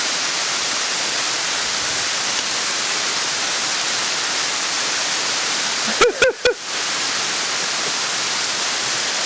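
Waterfall water rushing: a steady, even hiss. About six seconds in there is a brief cluster of sharp knocks with a short vocal sound.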